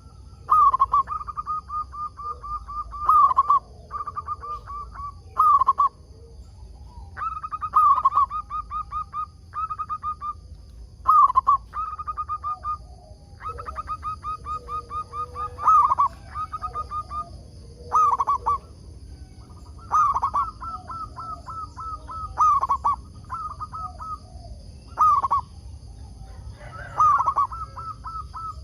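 Zebra dove (perkutut) cooing over and over, each phrase a strong opening coo followed by a quick stuttering run of shorter coos, repeating every two to three seconds. A faint steady high-pitched whine runs underneath.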